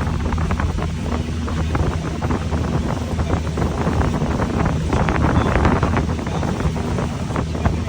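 Boat engine running steadily with a low drone, under heavy wind noise buffeting the microphone.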